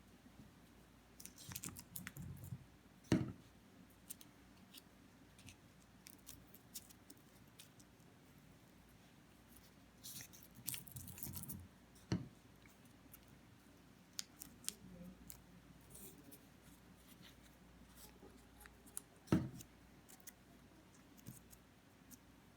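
Faint crackle and rustle of dry leaves and paper being handled and pressed down onto glued construction paper, with scattered small clicks. There are two sharp knocks on the table, one about three seconds in and another near the end.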